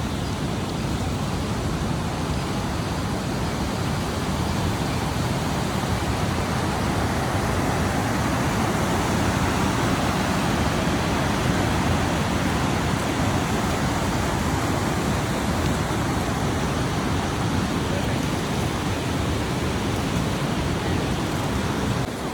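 Fast-flowing water rushing steadily, a dense even noise with no break.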